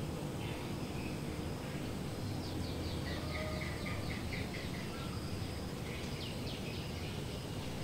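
A bird calling over steady outdoor background noise: a quick run of repeated short chirps, about four a second, starting a little over two seconds in and lasting a couple of seconds, then a shorter run near the end.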